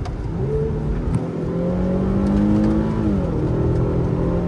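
Hyundai Genesis Coupe's engine, on its stock exhaust and heard from inside the cabin, revving up under hard acceleration in sport mode. The pitch climbs for a couple of seconds, drops at a gear change about three seconds in, then holds steady.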